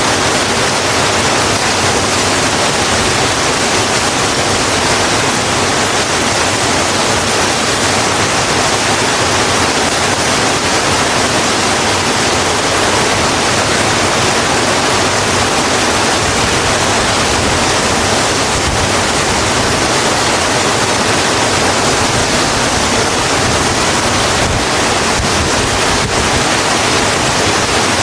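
Steady rain falling on a road, an even, unbroken hiss.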